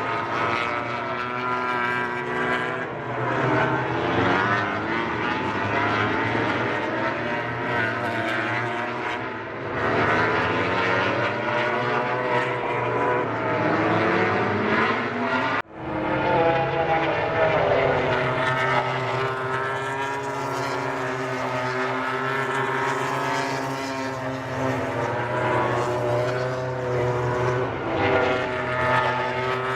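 Several MotoGP racing motorcycles' 1000 cc four-stroke engines at high revs, their pitch sweeping up and down through gear changes and overlapping as the bikes go by. The sound cuts off abruptly about 15 seconds in and comes straight back, after which the engine notes hold steadier.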